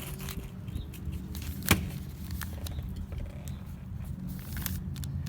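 A sheet of paper being folded and creased by hand, with light rustles and one sharp crisp snap about a second and a half in. It sits over a steady low background rumble.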